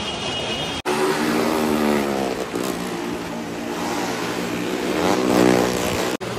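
Car engine revving up and down as the car is driven round the vertical wall of a well-of-death stunt pit. The engine note rises and falls, with a brief break just under a second in and another near the end.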